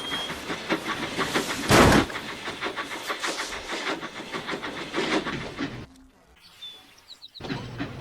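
Steam locomotive running: rhythmic puffing and wheel clatter, with a loud burst of hissing steam about two seconds in. The sound drops away for about a second and a half near the end, then the puffing resumes.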